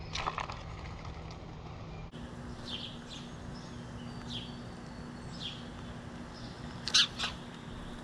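Birds calling at a backyard feeder: a string of short chirps that slide down in pitch, then two much louder calls in quick succession about seven seconds in.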